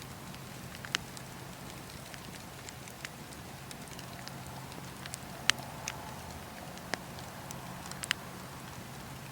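Campfire burning: wood crackling and popping in irregular sharp snaps, the loudest about five and a half seconds in, over a steady low hiss and hum.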